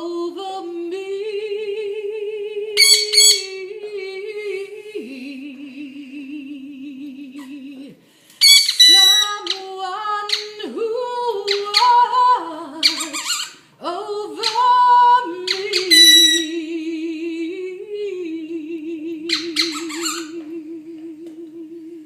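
A woman singing or humming long held notes with a wide vibrato, while a parrot squawks in short, loud, harsh bursts about seven times.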